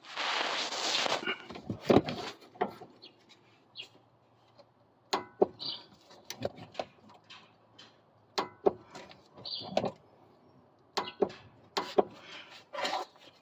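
Hand tools working on car suspension: a short rasping burst at the start, then a dozen or so separate sharp metallic clicks and knocks with quiet gaps between, as the suspension nuts are tightened.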